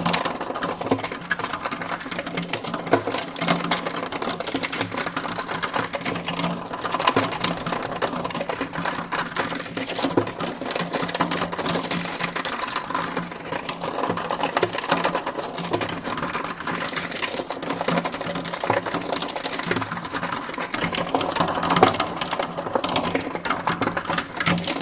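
Continuous rapid mechanical clattering over a steady low hum, with a slow swirling sweep that comes back every several seconds.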